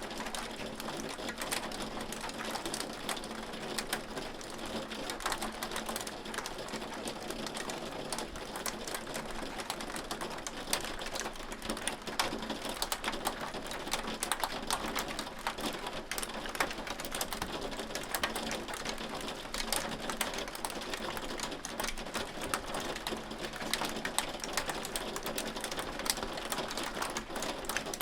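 Hail falling steadily: a dense, unbroken stream of small sharp clicks and ticks as hailstones strike, over a hiss of falling precipitation.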